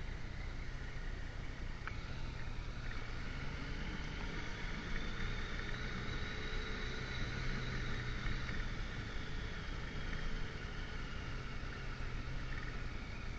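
Motorcycle riding along, its engine running steadily under a constant wash of wind and road noise, a little louder in the middle stretch.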